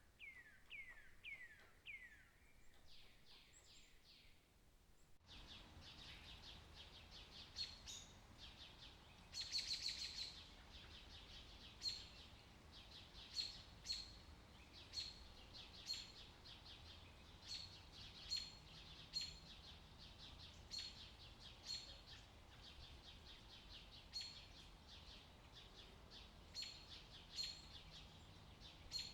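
Faint birdsong, most likely a nature recording laid under the slides. First come a few quick chirps sliding down in pitch. After an abrupt change about five seconds in, short high chirps repeat roughly once a second over a low background noise.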